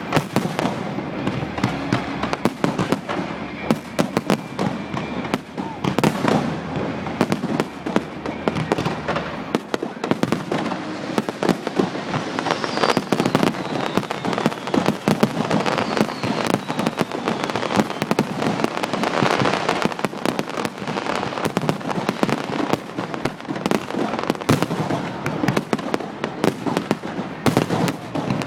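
Fireworks display: a rapid, continuous barrage of bangs and crackling from aerial shells bursting.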